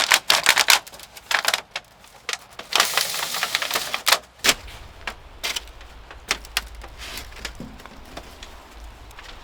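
A rapid series of sharp clicks and knocks, as of hard objects being handled, with a rustle about three seconds in; the clicks thin out over the second half.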